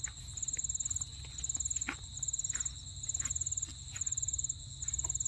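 Crickets chirping: a high, rapidly pulsed trill in half-second bursts about once a second, over a steady high-pitched insect drone. A few faint clicks are heard among them.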